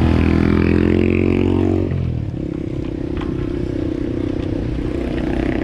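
Motor vehicle engines running on the road. A louder engine tone holds and rises slightly, then falls away about two seconds in, leaving a steady engine hum.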